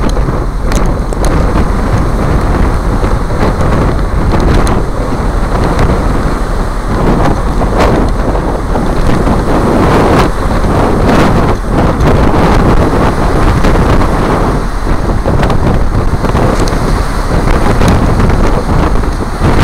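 Loud, steady wind rushing and buffeting over the microphone of a motorcycle riding at speed, with the bike's running and road noise underneath.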